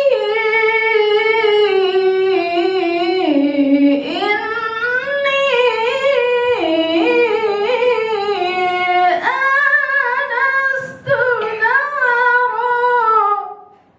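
A woman reciting the Quran in the melodic tilawah style, unaccompanied, holding long ornamented phrases that glide up and down in pitch. There is a brief break for breath about three-quarters of the way through, and the phrase ends just before the close.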